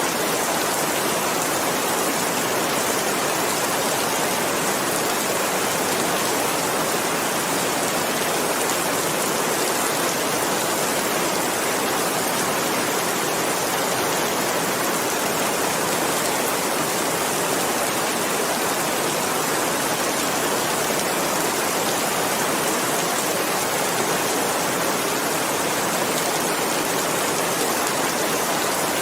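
Steady rain falling, an even hiss of many drops without individual taps standing out.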